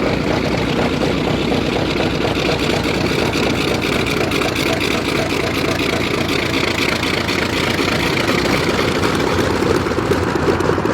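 Piston aircraft engines running steadily at low power, with a fast, even pulsing of propellers turning.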